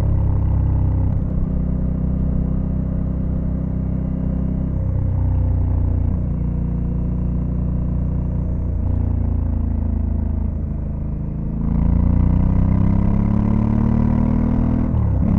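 Honda Africa Twin CRF1100L's parallel-twin engine under way, its note stepping through several gear changes. About twelve seconds in it opens up, louder and rising in pitch, then dips briefly for an upshift near the end and pulls again.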